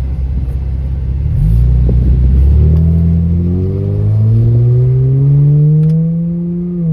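Car engine and exhaust accelerating under load, with the catalytic converter unbolted from the exhaust. The engine note steps up, then climbs steadily for several seconds and drops sharply near the end, like a gear change.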